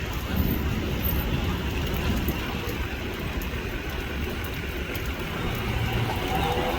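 Steady rain with traffic running past on a wet road: an even hiss over a low rumble.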